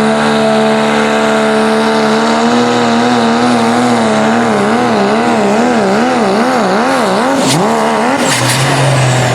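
3.0-litre diesel pulling truck's engine running hard under load, its note steady at first, then the revs swinging up and down about once a second before the engine note drops away near the end. A couple of sharp cracks sound near the end.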